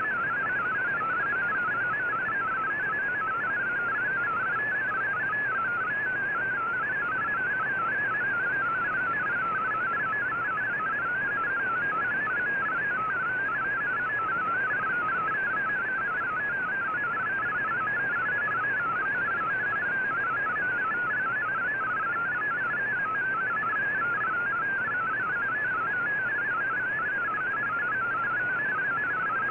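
MFSK digital text signal received on shortwave: a rapid, continuous warble of tones hopping within a narrow pitch band, over steady band hiss.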